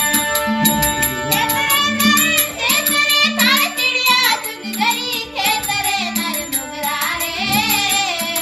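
Rajasthani devotional bhajan: a solo voice sings a wavering, ornamented melody that enters about a second and a half in, over steady held drone notes and an evenly repeating percussion beat.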